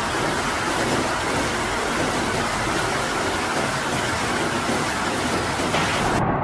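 Steady, dense hiss of a heavy storm downpour. Near the end it cuts abruptly to a duller noise with the high hiss gone.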